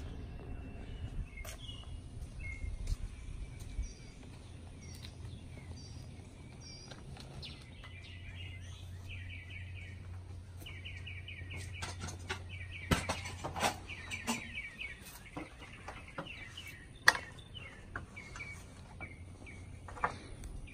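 Birds chirping and tweeting in repeated short notes, over a steady low hum, with a few sharp knocks, the loudest about 17 seconds in.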